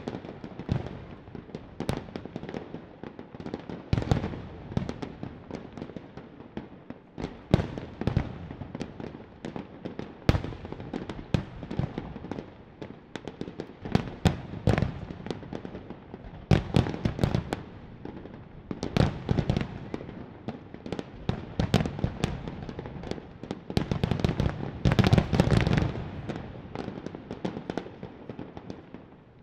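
Fireworks display: shells bursting in irregular succession, many sharp bangs with crackling, thickening into a dense volley of bursts near the end.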